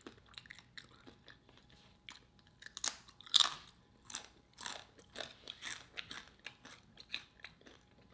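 Close-miked crunching and chewing of a homemade tortilla chip: a string of irregular crisp crunches, the loudest a little over three seconds in.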